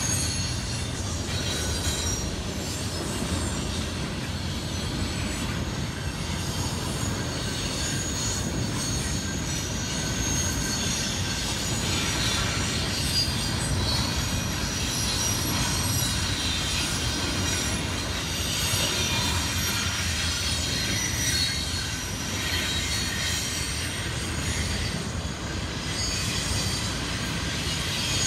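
BNSF double-stack intermodal freight train's cars rolling steadily past on the rails, a continuous rumble with high-pitched wheel squeals coming and going over it.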